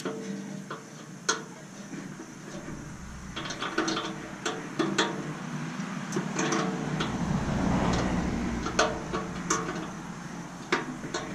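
Socket wrench ratcheting on bolts of a stainless steel steamer, with scattered metal clicks and clinks of tools. A denser rattling stretch falls in the middle.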